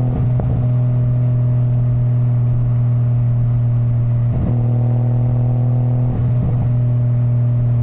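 Nissan Skyline GT-R (BCNR33)'s RB26 twin-turbo straight-six running at a steady engine speed, one strong unchanging note. Brief sweeping sounds pass over it near the start and a few times after the middle.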